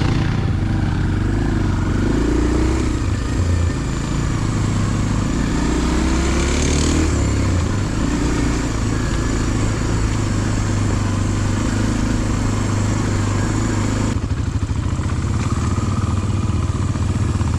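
Dirt bike engine running as it is ridden, the revs rising and falling. Near the end it drops to a lower, choppier note.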